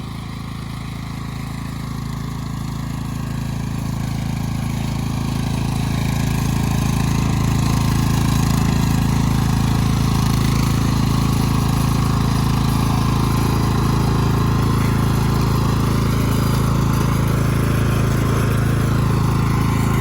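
Tractor engine running under load, growing louder over the first several seconds and then holding a steady drone.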